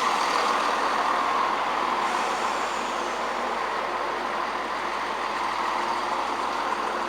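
A train moving through the station, making a steady, even running noise that holds level throughout.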